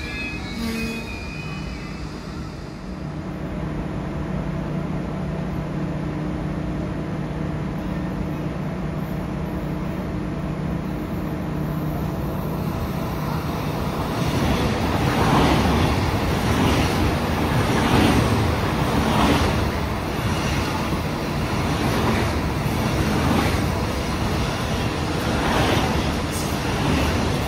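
Electric train at a station: first a steady hum, then from about halfway louder, with a rhythmic clatter of wheels over rail joints, roughly one knock a second, as the cars pass.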